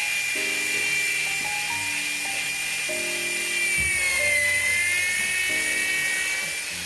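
A power drill running with a steady high-pitched whine, its pitch dipping briefly about four seconds in and then recovering, over background music with a simple melody.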